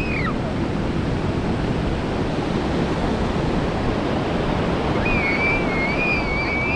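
Ocean surf washing in steadily, with wind buffeting the microphone. Near the end, a long, high, wavering whistle-like call rises over it.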